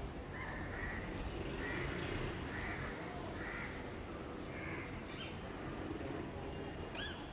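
A bird calling harshly and repeatedly, about one call a second, with a couple of different rising calls near the end.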